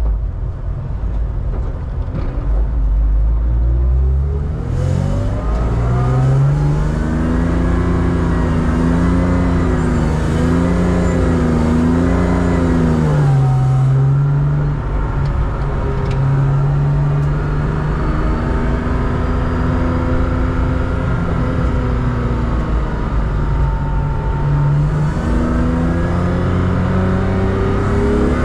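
BMW 325 Cup race car's straight-six engine heard from inside the car, pulling away with the revs climbing a few seconds in, then rising and falling with the throttle at moderate speed, with a dip about halfway through and another climb near the end.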